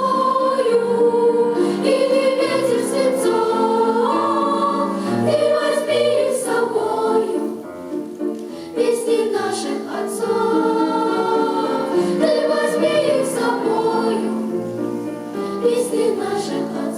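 A choir singing in several voice parts, with a short break between phrases about halfway through.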